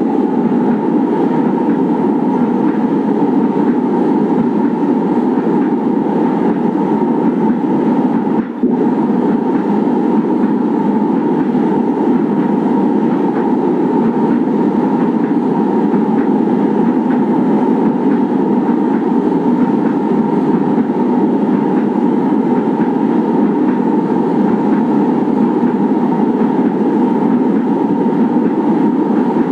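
Manila LRT Line 1 1200-series light rail train running steadily: a continuous rumble of the car on the track with a steady whine that rises slightly near the end. The sound briefly drops out about eight seconds in.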